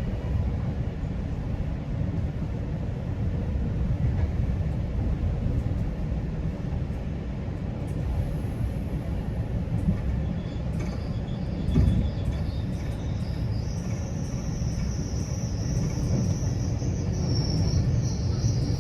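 GO Transit commuter train running along the tracks: a steady low rumble of wheels on rail, with one brief louder knock near the middle. A thin high whine comes in during the second half and holds.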